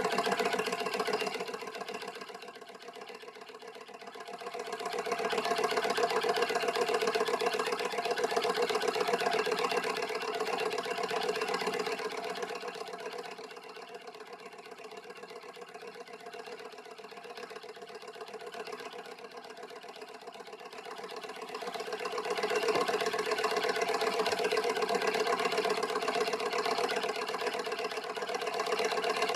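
Beta-type Stirling engine running with a fast, steady mechanical clatter, growing louder and softer a few times.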